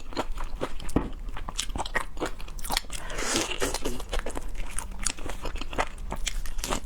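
Close-up chewing and crunching of food, with many quick crisp crunches and wet mouth clicks.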